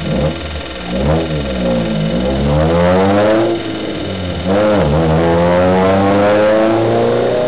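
Car engine revving and accelerating, its pitch climbing and falling back several times, then holding steady and high through the second half.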